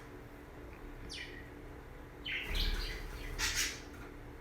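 Pet budgerigar chirping: a high call sweeping downward about a second in, then a few short, scratchy chattering calls.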